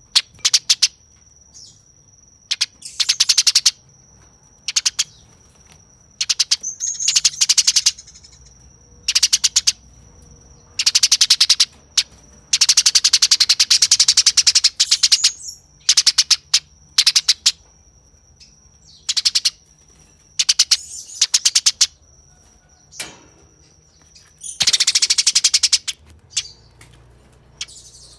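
Eurasian tree sparrow giving harsh, rapid chattering calls in repeated bursts of fast notes, some brief and some running two to three seconds. This is the agitated fighting chatter of a sparrow squaring up to a rival.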